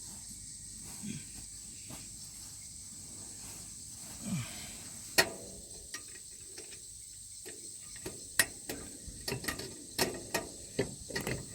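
Socket ratchet clicking and metal tool knocks on a mower blade bolt: a lone sharp click about five seconds in, then an irregular, quickening run of clicks over the last few seconds.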